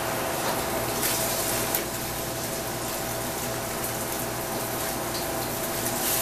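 Steady sizzle and hiss of tofu frying in oil in a wok on a gas range, with a steady low hum underneath.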